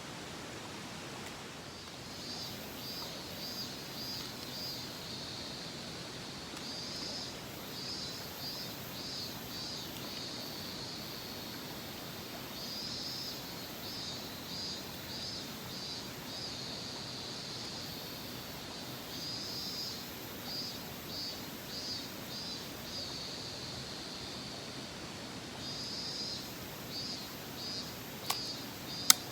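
Steady rush of a mountain stream. Over it, a high-pitched, pulsed animal call repeats in short phrases about every five or six seconds, and a couple of sharp clicks come near the end.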